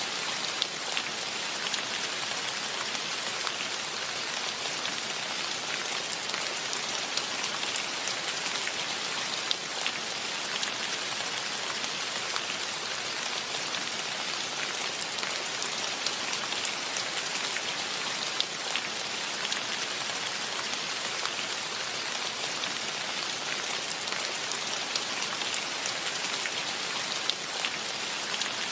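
Steady rain falling, an even hiss dotted throughout with the small taps of individual drops.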